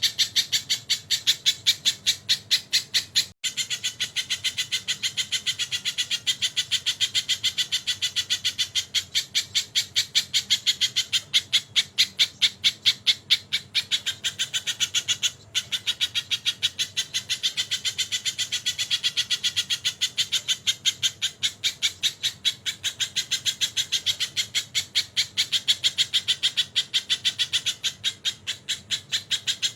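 A sogon bird singing nonstop: a fast, unbroken run of sharp, high repeated notes, about five a second, in kingfisher-like (tengkek) phrases. The run breaks off for an instant twice, about three seconds in and near the middle.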